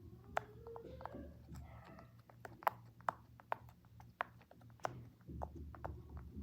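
Silicone pop-it fidget toy being played with: a string of irregularly spaced pops and clicks as its bubbles are pressed through.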